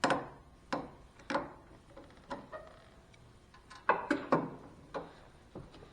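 Sharp metal clicks and clinks at irregular intervals, about nine in all and clustered near the middle, as hand tools work at a cotter pin in a zero-turn mower's steering-arm linkage.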